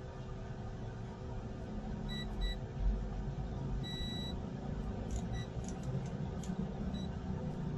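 Short electronic beeps at one steady pitch: two quick ones about two seconds in, a longer one about four seconds in, then brief single ones later. A steady low hum and rumble runs underneath.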